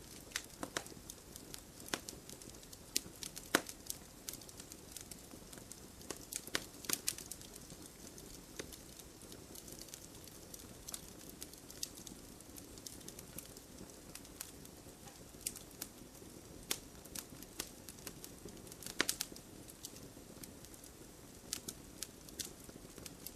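Wood campfire burning with irregular crackles and sharp pops over a soft steady hiss, with small clusters of pops now and then.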